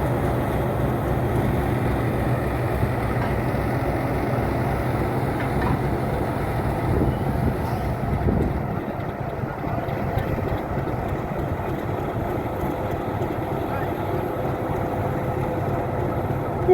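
ALCO RS8 diesel locomotive's engine running steadily while shunting: a steady low rumble with even engine tones.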